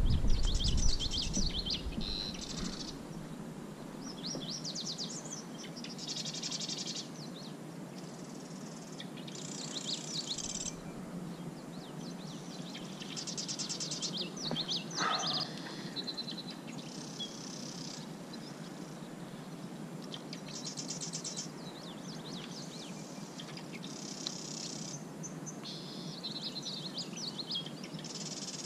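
Songbirds singing: short, high, rapidly trilled phrases repeated every two to three seconds over a steady low hiss. A low rumble fades out in the first two seconds.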